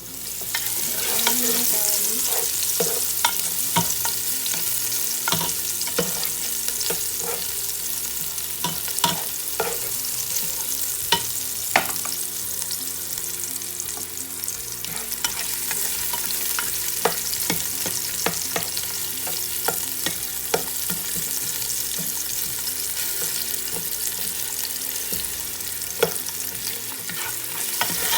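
Cornflour-coated chicken breast pieces frying in hot oil: a steady loud sizzle that swells up right at the start, scattered with sharp pops and clicks.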